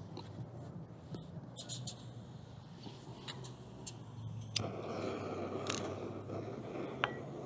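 A few light clicks and metal taps, then about halfway through, with a sharp click, a BRS 3000 canister gas stove lights and its burner flame runs on with a steady rushing hiss.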